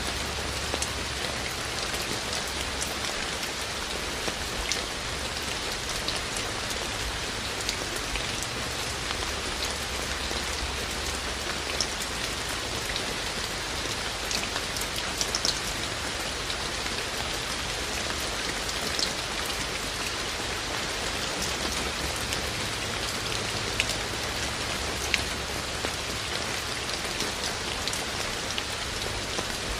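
Steady rain falling: an even hiss with scattered close raindrops ticking sharply on top.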